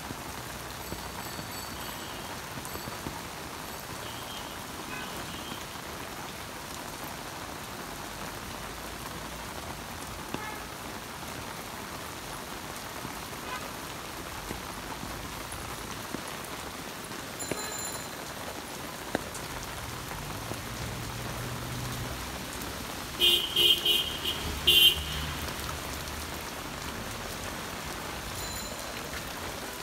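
Steady rain falling on a wet road, with light traffic going by. About two-thirds of the way through, a horn sounds several short, loud blasts in quick succession.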